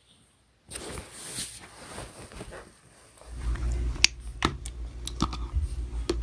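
Slime being squished and poked by hand, giving sticky crackles and sharp clicks that start about a second in, with a low handling rumble under them in the second half.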